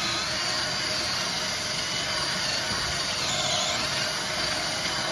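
Electric drill running under load, boring through the steel of a trailer frame; its whine dips in pitch briefly about three and a half seconds in as the bit bites.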